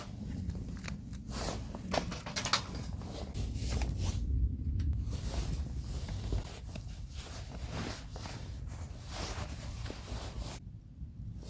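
Handling noises: rustling with scattered light clicks and knocks over a low rumble, loudest about midway.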